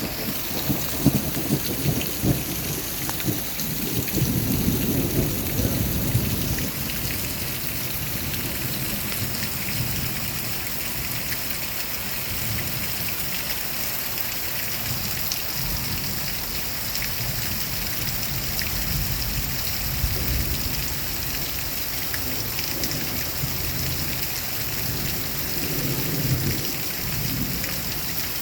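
Rain falling steadily in a thunderstorm, with thunder rumbling low in the first few seconds and again faintly near the end.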